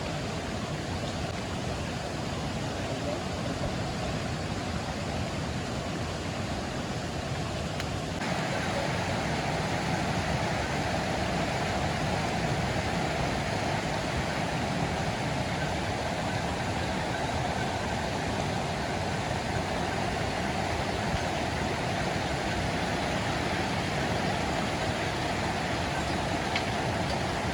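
Rushing water: a steady, even noise that shifts to a brighter, fuller tone about eight seconds in.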